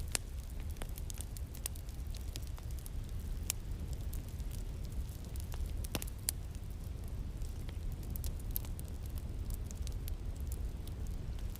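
Wood fire crackling in a fireplace: irregular sharp pops and snaps, one louder about halfway through, over a steady low rumble.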